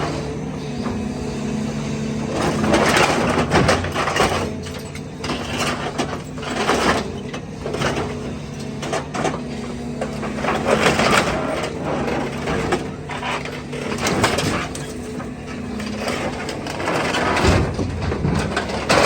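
Heavy equipment's diesel engine running steadily while scrap metal crunches and scrapes in repeated bursts, loudest about three, seven, eleven and fourteen seconds in and near the end.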